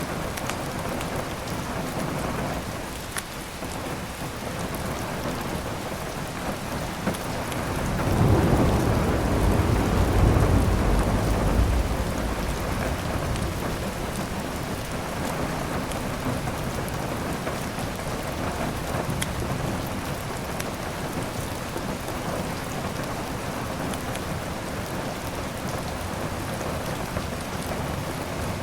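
Steady rain with a rumble of thunder that swells about eight seconds in and rolls on for a few seconds before fading back into the rain. A few sharp crackles from a wood fire are scattered through.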